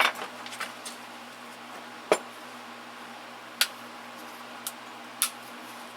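Metal hand tools and sockets clinking as they are handled and sorted: a handful of separate sharp clinks and clicks, the loudest about two seconds in, over a steady low hum.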